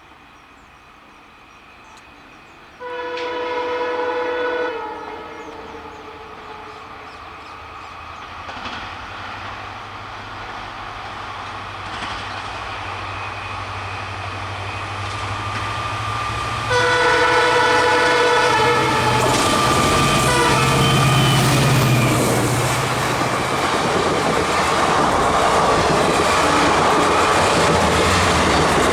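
Indian Railways diesel locomotive approaching around a curve, sounding two long horn blasts about 3 and 17 seconds in, its engine growing steadily louder. From about 19 seconds in the train passes close by, with loud running noise and wheels clattering over the rail joints.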